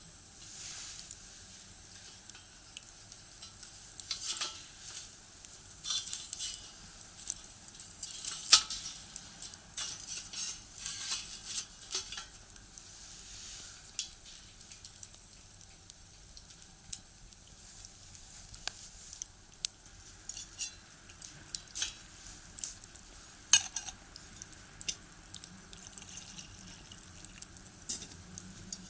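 Firewood burning in a box stove, crackling with irregular pops and snaps over a faint hiss, a couple of them sharper and louder than the rest.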